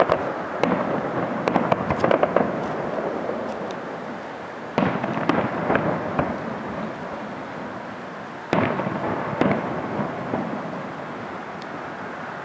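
Aerial fireworks bursting in clusters of sharp bangs and crackles, each volley trailing off into a rolling rumble.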